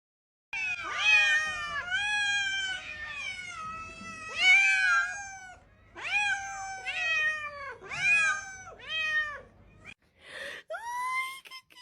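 A cat meowing over and over: about eight drawn-out meows, each falling in pitch, with a short rising call near the end.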